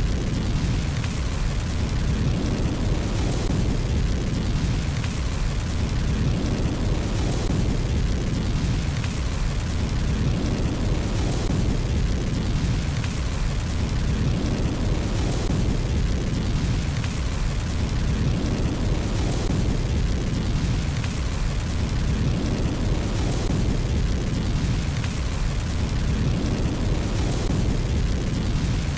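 Fire burning in a fireplace: a steady low roar with soft crackles, the pattern repeating about every four seconds as a loop.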